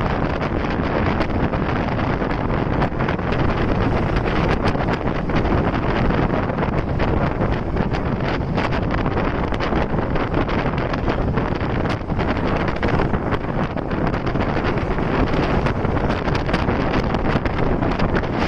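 Steady rush of wind buffeting the microphone on a moving motorcycle, mixed with vehicle noise.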